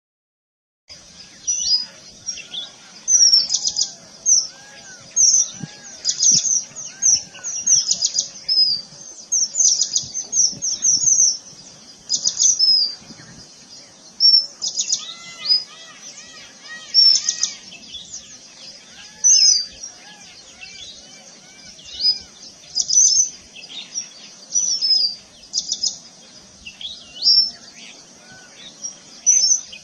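Several birds chirping and calling, with many quick high-pitched chirps in irregular runs over softer, lower whistled notes.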